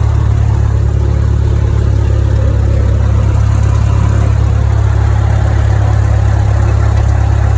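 Cessna 172M's four-cylinder Lycoming engine and propeller running steadily at constant speed, with a deep, even drone.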